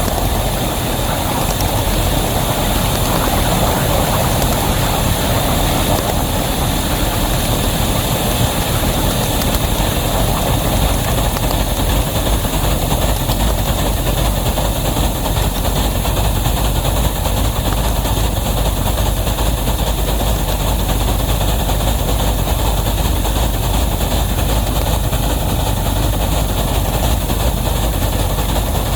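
Wabash #713 and its heavy train running, a loud, steady mechanical rumble with no breaks.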